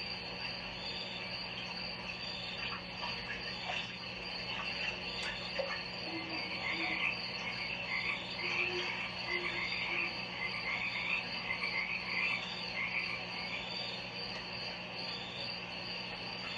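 Steady ambience of short, frog-like chirping calls repeating about once a second, over a continuous low hum.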